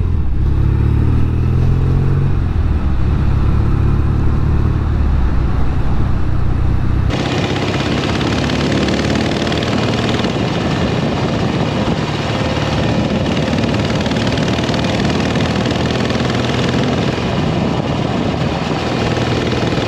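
Norton Commando 850's air-cooled parallel-twin engine running on the road, its pitch rising and falling with throttle and gear changes. About seven seconds in the sound switches abruptly to a thinner engine note under a steady hissing rush.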